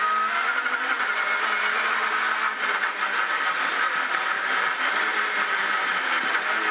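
Ford Escort rally car's engine heard from inside the cabin, revving hard under load, its pitch rising and falling as it changes up through the gears and back down.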